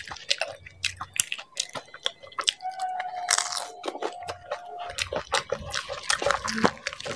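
Close-miked chewing of dahi puri: crisp puri shells crunching in the mouth with wet mouth sounds from the yogurt-soaked filling, as a run of irregular crackles and clicks.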